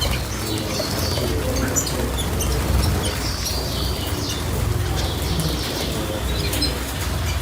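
Small cage birds chirping over and over in short, falling note groups, with a steady low rumble underneath.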